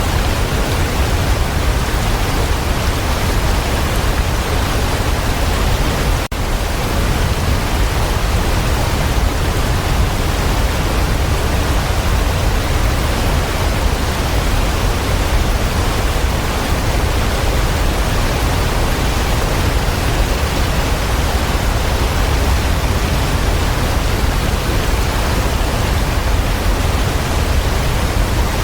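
Waterfall: a steady, dense rush of falling water with a deep low rumble, and a brief drop in level about six seconds in.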